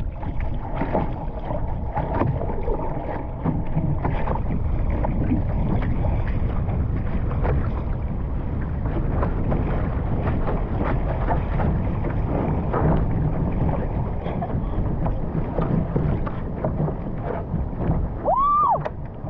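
Wind buffeting the microphone and water splashing and slapping around a Laser ILCA 4 sailing dinghy under way. Near the end a brief whistle-like tone rises and falls.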